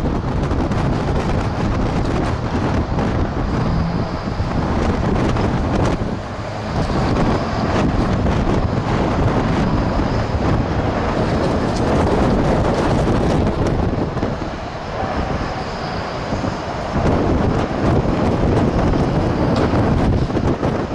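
Strong wind buffeting the microphone in gusts, with the Pratt & Whitney geared turbofans of an Airbus A220 on landing beneath it and a faint high engine whine running through most of it.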